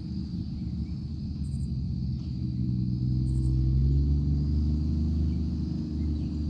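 1966 Chevrolet C30 truck's engine running with a low rumble that grows louder about three seconds in.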